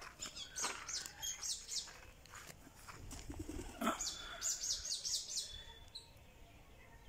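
Small birds chirping outdoors in short high calls, with a quick run of five or six high, falling notes about four to five seconds in.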